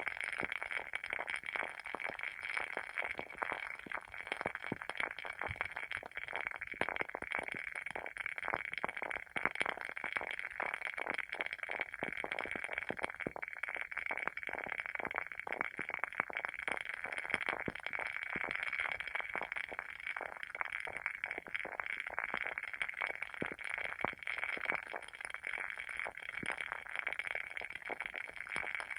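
WoodWick candle's wooden wick burning with continuous crackling: many small, irregular pops and ticks a second over a soft steady hiss, like a tiny fire.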